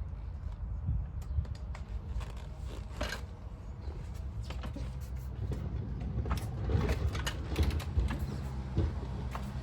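1999 Kawasaki KX250 two-stroke engine running on choke at a steady pitch, with a few sharp mechanical clacks. This is the super high idle the bike goes into on choke when started after sitting.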